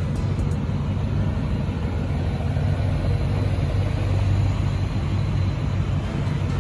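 Several Ford Mustangs' engines idling together in a line: a steady low rumble.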